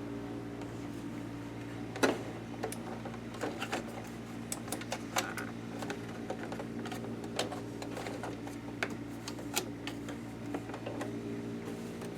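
Irregular plastic clicks and knocks from hands working at the housing and slide-off accessory box of a Janome ME4014 sewing machine, with one sharper knock about two seconds in, over a steady low hum.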